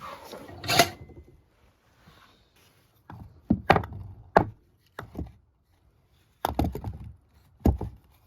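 A series of sharp knocks and thuds on wood: one about a second in, a quick run of four or five between three and five seconds in, and two more near the end.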